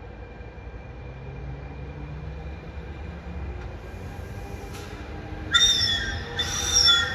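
An approaching train sounds its multi-tone horn in two short blasts near the end, over the low rumble of the train drawing closer and growing louder.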